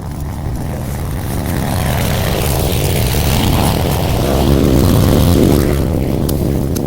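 Brush cutter engine running under throttle, growing louder over the first few seconds and easing off a little near the end.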